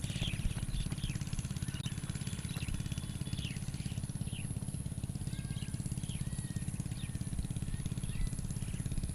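A small engine running steadily, a low pulsing hum, while birds give short chirps over it every second or so.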